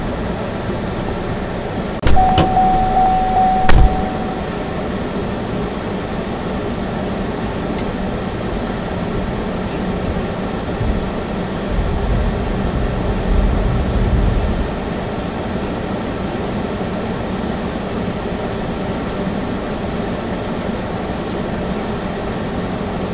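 Steady road and engine noise inside a Chevy Spark's cabin while driving. About two seconds in comes a sharp knock, followed by a steady beep-like tone of about two seconds and a second knock; a low rumble swells briefly past the middle.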